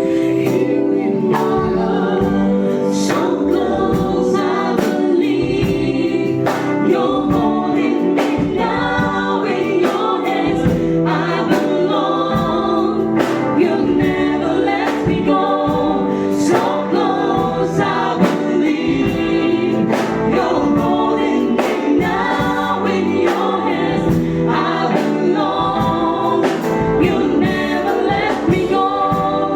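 Church choir singing a gospel song over instrumental accompaniment with a steady drum beat.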